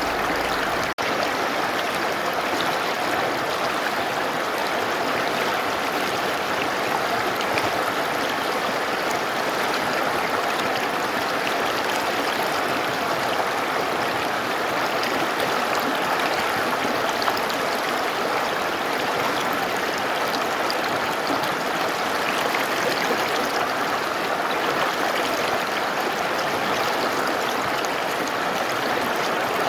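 Mountain river flowing: a steady, even rush of water, with a split-second dropout about a second in.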